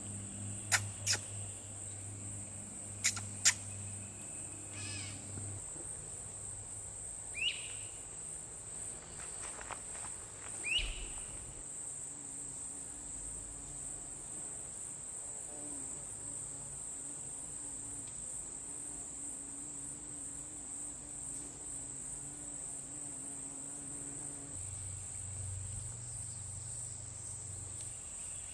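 Steady, high-pitched chorus of insects singing without a break. A few sharp clicks come in the first few seconds, and twice a short rising call cuts through.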